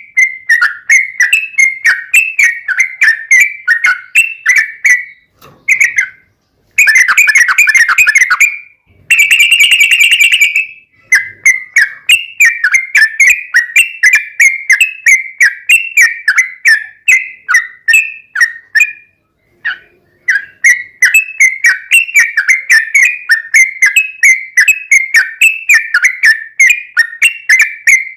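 Yellow-vented bulbul (trucukan) singing a long run of quick, bubbling whistled notes, about four a second. Two denser, harsher bursts come about seven to eleven seconds in, and there is a short break near twenty seconds.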